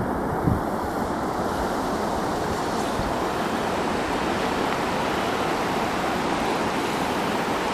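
Steady rushing of river rapids, an even noise that holds at one level throughout.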